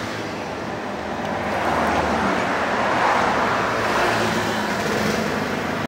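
Road traffic passing close by: a steady rush of vehicle noise that swells a couple of seconds in.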